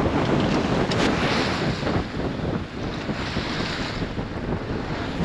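Strong wind buffeting the microphone over the rush of water along the hull of a sailboat sailing fast upwind, with surges of spray-like hiss about a second in and again around three seconds.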